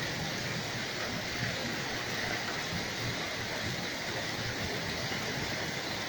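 Rain falling steadily during a thunderstorm, an even hiss with no thunderclap.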